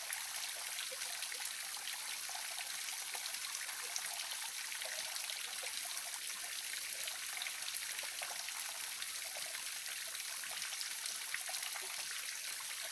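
Waterfall splashing steadily: an even rushing hiss of falling water, with small bubbling drips and gurgles scattered through it.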